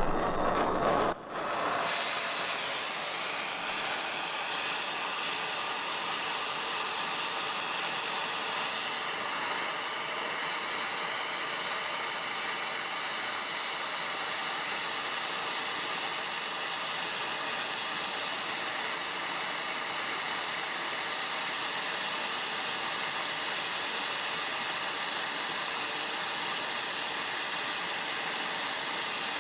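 Gas torch burning with a steady hiss, heating a through bolt that is rusted in place.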